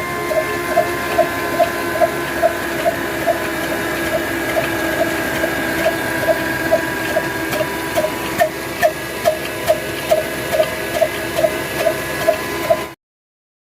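Old Ruston-type desi diesel engine driving a flour mill, running with a regular beat about two and a half times a second over a steady mechanical hum. The sound cuts off abruptly near the end.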